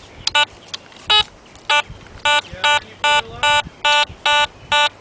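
Metal detector giving short, identical electronic beeps as it is swept over a buried target, coming faster to about two or three a second: a strong signal.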